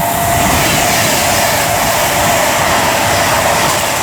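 Avanti West Coast Class 390 Pendolino electric train passing at speed: a loud, steady rush of wheel-on-rail and air noise.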